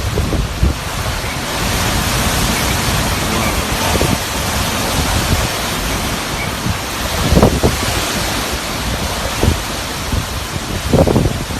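Typhoon rain and wind: a loud, steady rushing hiss, with gusts buffeting the microphone in low thumps several times.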